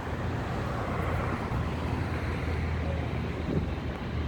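Steady roar of jet airliner engines with a deep low rumble, holding level without any clear rise or fall.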